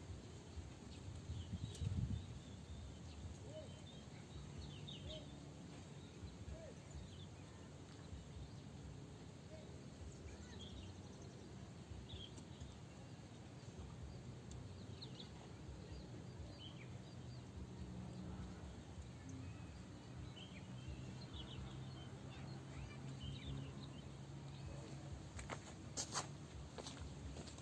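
Faint outdoor swamp ambience: scattered short bird chirps over a steady low rumble, with one sharp click near the end.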